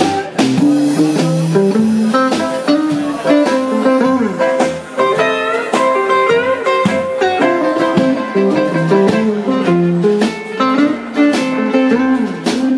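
Live blues band playing an instrumental break, led by a guitar picking quick single notes, some bent in pitch, over a steady bass line.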